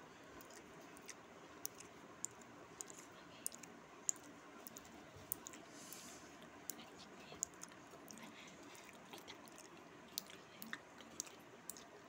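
Two people eating chowmein noodles by hand: faint chewing with scattered sharp clicks, irregular and a few each second, and a short hiss about six seconds in.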